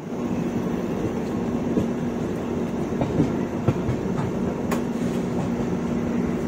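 Express passenger train running at speed: a steady rumble of wheels on rails with a faint steady hum and occasional sharp clicks.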